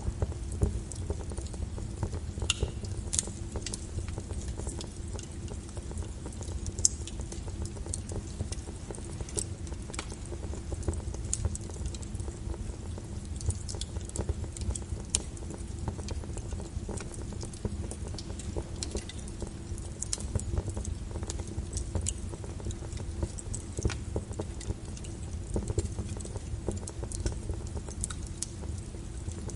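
Wood fire burning in a fireplace: irregular crackles and snapping pops over a steady low rumble of flames.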